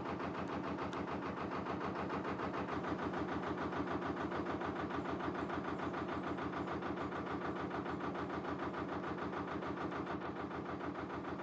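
Narrowboat's diesel engine running steadily while the boat cruises along the canal, with an even, rapid beat.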